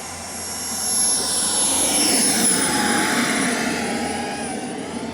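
Model jet's gas turbine engine whining as the plane flies past: the rush swells to its loudest about a second or two in and then fades, while the high whine drops slightly in pitch.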